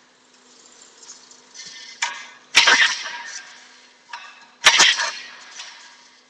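Recoil pull-starter of a Baja Doodle Bug mini bike yanked twice, about two and a half seconds apart, with another pull beginning right at the end. Each pull is a sharp rasping whirr as the engine turns over without catching, a failure the owner puts down to the cold and to it possibly needing more gas.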